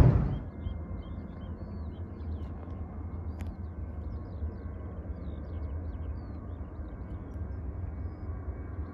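Loud jet airliner engine noise cuts off abruptly just after the start. Many short bird chirps follow over a low steady rumble, with a single click about three and a half seconds in.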